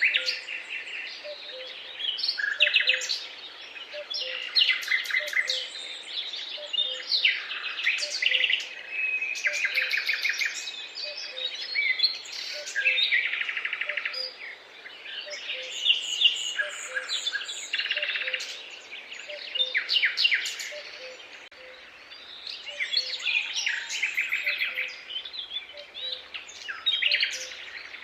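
Several songbirds singing at once, overlapping phrases full of rapid trills and chirps, with a soft low note repeating about once a second underneath.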